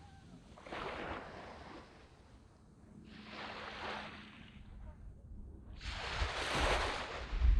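Small waves breaking and washing up a sand beach, three surges about two to three seconds apart, the last one the loudest as it builds near the end.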